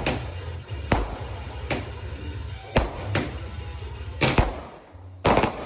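Fireworks going off: a string of sharp bangs at irregular intervals, about seven or eight, the loudest a pair a little past the middle and one near the end, over a steady low rumble.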